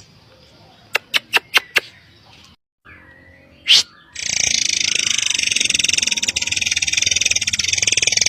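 Murai air bird calls: five quick, sharp ticks about a second in and a single loud short call just past the middle. These are followed by a continuous, dense, high buzzing trill that fills the rest.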